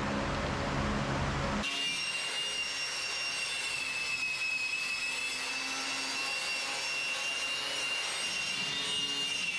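DeWalt random orbital sander with a vacuum hooked to its dust port, sanding the welder's sheet-metal case with 100-grit paper. A rough scratchy burst of about a second and a half gives way abruptly to a steady high whine.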